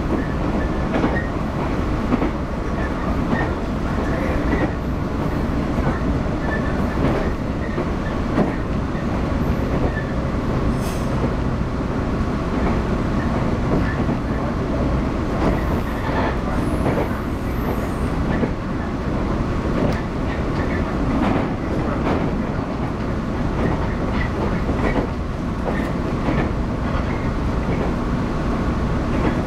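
Running noise heard inside a JR 115 series electric train at speed: a steady rumble of steel wheels on the rails, with scattered clicks as the wheels pass over rail joints.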